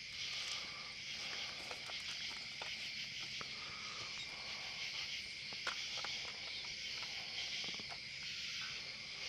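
Steady chorus of night insects, crickets and katydids, a continuous high-pitched buzzing hum, with a few faint clicks.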